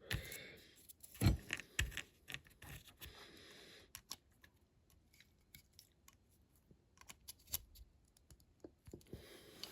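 Scattered small clicks and taps of diecast toy-car parts being handled as the baseplate is fitted to the body, with a louder knock about a second in and quiet gaps in the middle.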